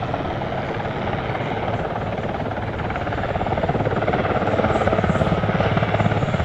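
Swiss Air Force Super Puma helicopter flying backwards in a display manoeuvre: rapid, even rotor beat over turbine noise, growing louder about halfway through as it comes closer.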